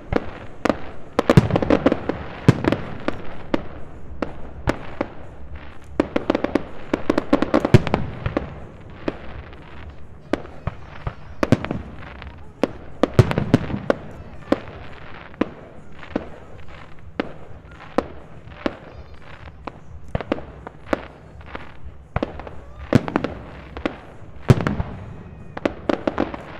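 Display fireworks bursting over a river: an irregular, continuing run of sharp bangs, some close together in clusters and others spaced out.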